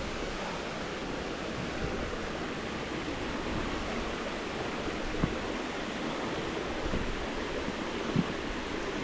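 A stream rushing steadily over rocks, with a couple of brief knocks about five and eight seconds in.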